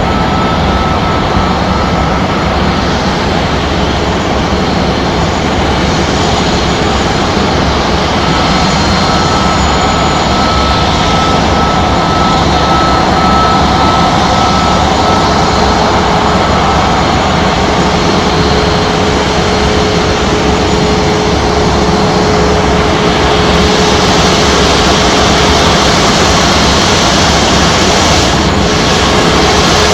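Jet aircraft engines running: a loud, steady noise with a thin, high whine over it.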